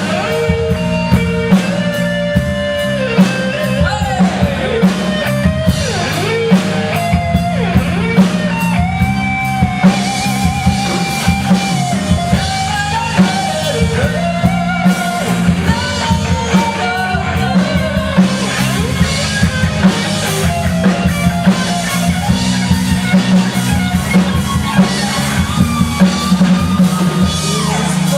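Live rock band playing an instrumental break: an electric guitar lead with bending, wavering notes over a drum kit and bass guitar.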